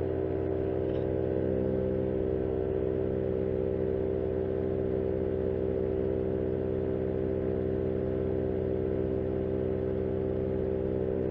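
Paramotor engine and propeller droning steadily at constant power in flight, with an even, unchanging pitch.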